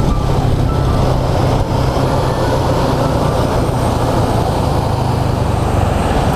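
Steady wind and road noise on the microphone of a moving Honda Click scooter, with its engine running evenly underneath at a constant speed.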